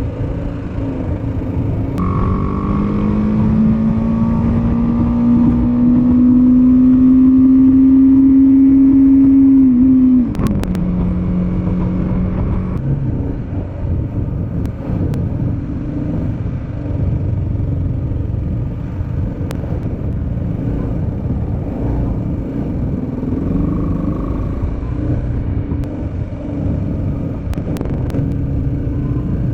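Motorcycle engine pulling hard, its pitch climbing slowly and steadily for about eight seconds. About ten seconds in the pitch drops suddenly and holds lower for a couple of seconds, then gives way to steady engine and road rumble. A few short clicks are heard around the drop and again near the end.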